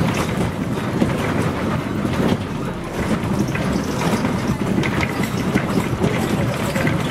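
Scania CN113CLL city bus on the move, heard from inside: its Scania DSC 11.71 diesel engine and road noise make a steady low rumble, with frequent small rattles from the body.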